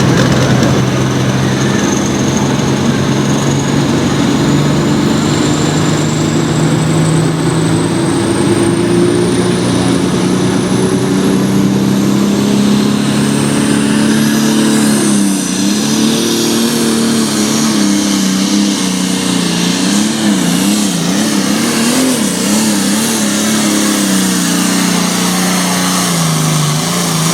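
Turbocharged diesel engine of a Light Limited Super Stock pulling tractor running hard under load during a pull. A thin high whine climbs steadily through the first half, and from about halfway the engine note wavers up and down as the revs rise and fall.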